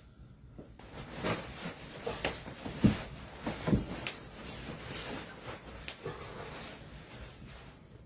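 Rustling and handling noises with a few knocks; two thumps, about three and four seconds in, are the loudest.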